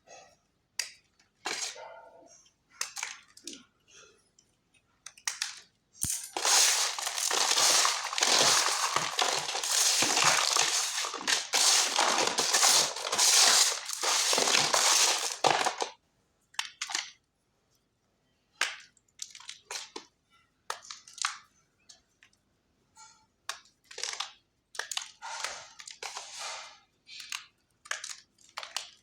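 Lumps of khadiya chalk being crushed. It starts with scattered sharp crunches, turns into about ten seconds of dense continuous crumbling, then goes back to separate short crunches.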